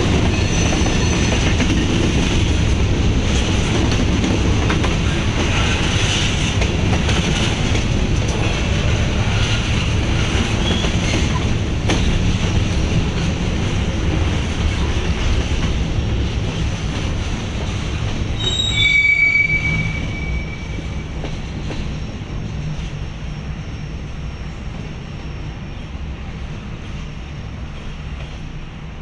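Freight train cars rolling past with a steady rumble and squealing steel wheels. About two-thirds of the way through, a brief high squeal rings out. The sound then gradually fades to a quieter, steady rumble.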